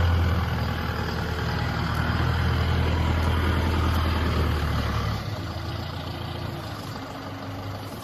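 Diesel engine of a Heli CPCD35 3.5-ton forklift running steadily; about five seconds in its deep note drops and the sound gets quieter.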